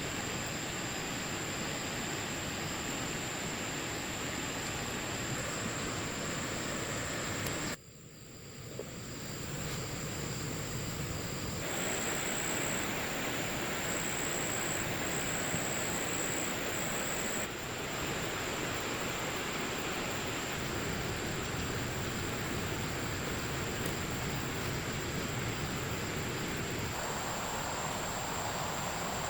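Steady outdoor noise, an even hiss with a thin high steady tone above it. It drops out sharply about eight seconds in, returns, and changes in character a few times after that.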